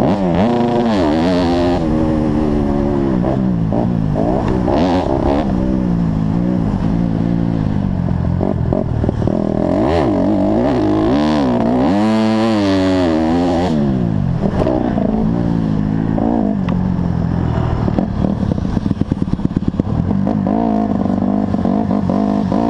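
Honda CRF150R four-stroke single-cylinder motocross engine under race load, its pitch climbing and dropping again and again as the throttle is opened and shut through the gears. Near the end the level pulses in quick, even beats.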